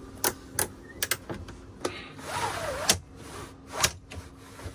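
A run of sharp clicks and knocks, about eight in a few seconds, with a short rustling swell in the middle, as of things being handled and set down while camp is being set up.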